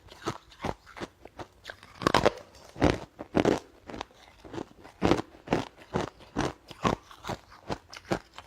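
A person chewing and biting crunchy food close to the microphone, a steady run of crunches about two to three a second.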